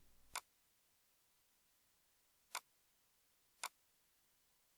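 Three sharp clicks of a computer mouse, one just after the start and two close together near the end, with near silence between them.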